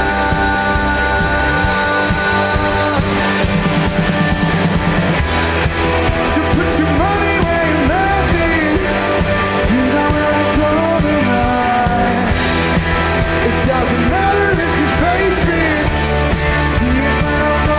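Rock band playing live, loud and steady, with a gliding melodic lead line over the full band from about seven seconds in.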